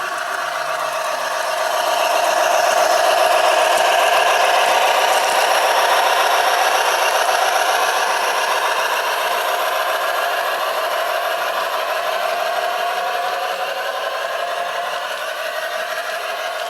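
G-scale model train running past on garden railway track, its wheels rattling and clicking over the rails; it grows louder over the first few seconds, then slowly fades as it moves away.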